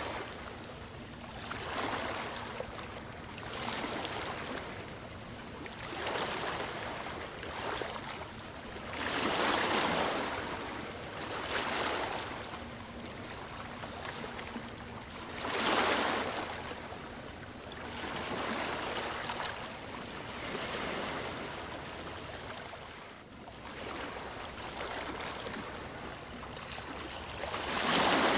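Small waves washing in on a shore, a rushing surge about every two seconds, with bigger waves breaking about ten seconds in, about sixteen seconds in, and near the end.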